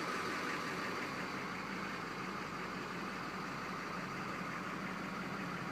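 Steady idle of a 6.6 L Duramax turbo-diesel V8, the engine of a 2006 GMC Sierra 3500, running evenly with a constant low hum.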